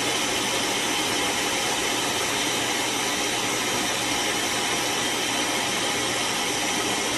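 Shark Clean & Empty auto-empty base's suction motor running steadily, pulling the debris out of the docked stick vacuum's dust bin.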